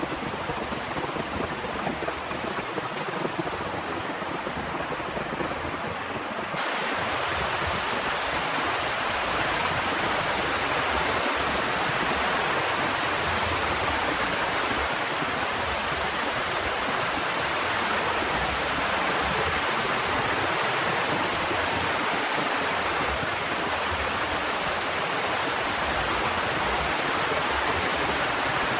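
Heavy rain falling in a dense, steady hiss. About six seconds in it turns suddenly louder and brighter, then holds steady.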